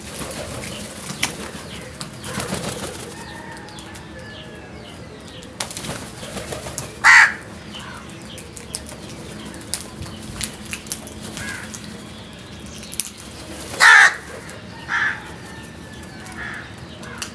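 Crows giving a few short, harsh caws, with two loud ones about 7 and 14 seconds in and fainter calls around them: the alarm calls of frightened crows.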